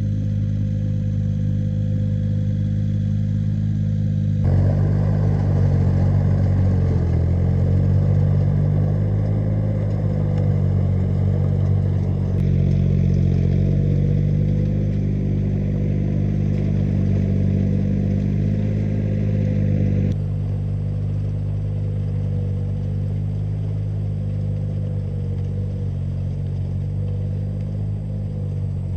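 An engine running steadily at a fairly constant speed, with its pitch wavering slightly. The sound changes abruptly a few times, as at cuts between shots.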